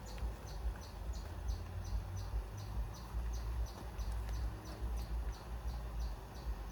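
A cricket chirping steadily, about three short high chirps a second, over a low uneven rumble.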